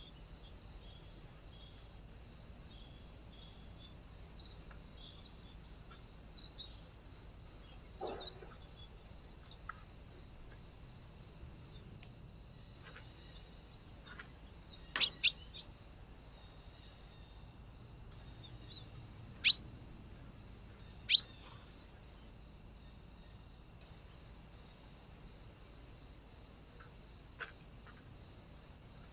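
A bird at a feeder giving short, sharp, high calls: three in quick succession about halfway through, then two more a few seconds apart. A steady high hiss with a faint pulsing pattern lies underneath.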